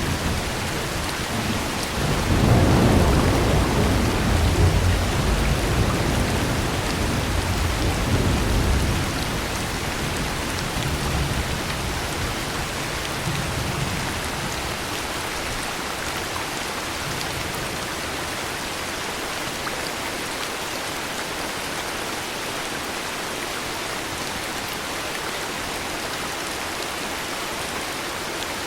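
Heavy rain falling steadily with a long low rumble of thunder that swells about two seconds in and dies away over the next ten seconds or so, leaving only the rain.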